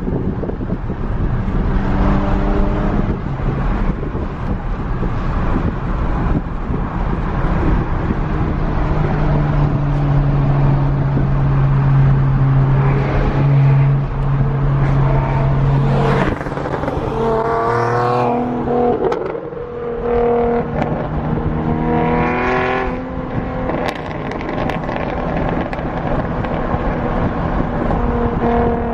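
Car engine running under way with road and wind noise; a little past halfway the engine revs up, climbing in pitch, then drops back, and it climbs again shortly after.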